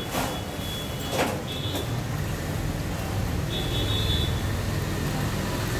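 A car engine running steadily, with two short knocks in the first second or so and a few brief high squeaks.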